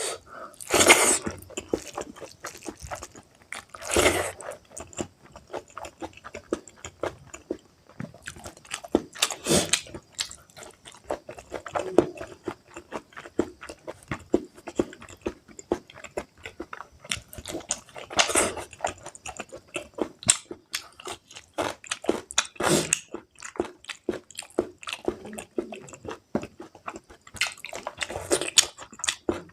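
Close-miked chewing and biting of spicy pork curry with rice: irregular wet mouth smacks and crunches, with a handful of louder bites spread through.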